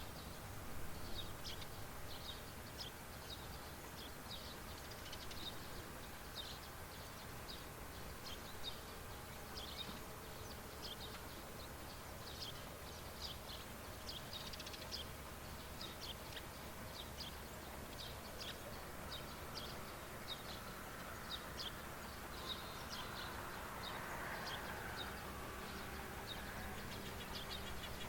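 Small birds chirping: short high chirps repeated many times a second over a steady low outdoor background. A soft swelling rush of noise rises and fades near the end, like a distant passing vehicle.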